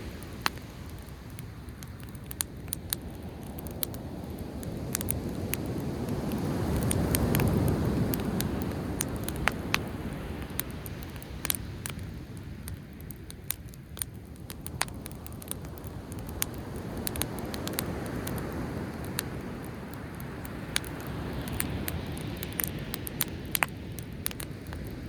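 Driftwood campfire crackling with frequent sharp pops, over the low rush of sea waves that swells about seven seconds in and then eases off.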